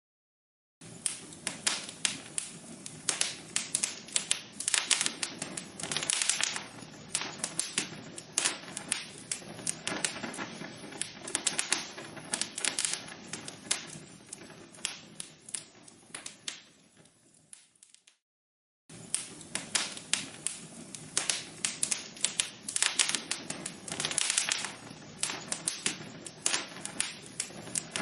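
Log fire crackling: a dense run of sharp snaps over a soft hiss. It fades out about two-thirds of the way through, cuts to silence for about a second, then starts again.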